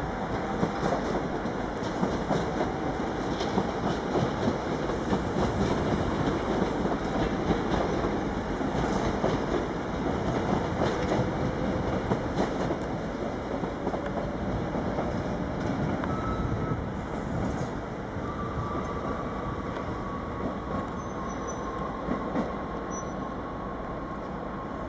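NS Sprinter Lighttrain electric multiple unit running on the rails, its wheels clattering over the rail joints and points. After about two thirds of the way in, the clatter eases and a thin, drawn-out wheel squeal comes in.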